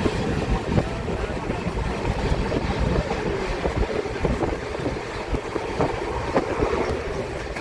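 Moving passenger train heard from an open carriage window: the steady running rumble of the coach on the track, with wind buffeting the microphone.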